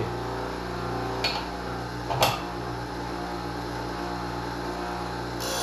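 Steady electric motor hum from a Wolff Twice As Sharp scissor sharpener running without a blade on the wheel, with two short knocks about one and two seconds in.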